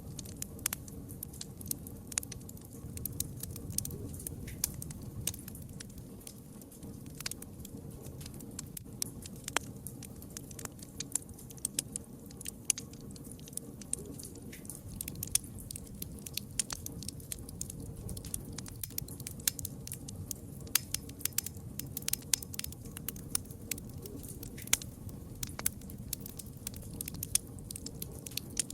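Campfire crackling: many irregular sharp pops and snaps over a low steady rumble of burning wood.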